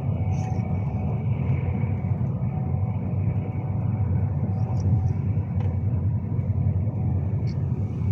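Steady low rumble of a Class 390 Pendolino train in motion, heard from inside the carriage, with a faint steady whine over it and a few small ticks.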